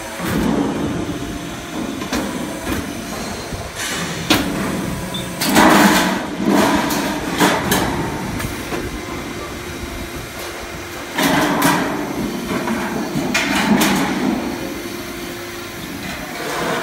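Automatic HVAC duct production line running: a steady machine drone broken by sharp metallic knocks and two louder, longer spells of sheet-metal clatter, about five and eleven seconds in.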